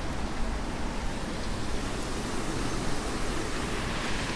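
Hurricane wind and rain, a steady rushing noise, heard from behind a glass door.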